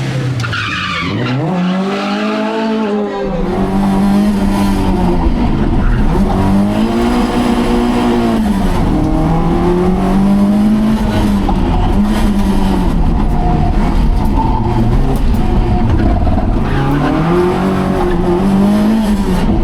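Rally car engine revving up and falling back over and over, a rise and fall about every two to four seconds, with tyres squealing on the surface.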